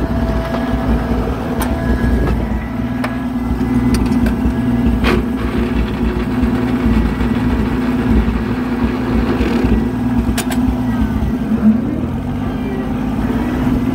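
Oliver 770 tractor engine running steadily under load while pulling a John Deere square baler, with a few sharp clicks and knocks scattered through.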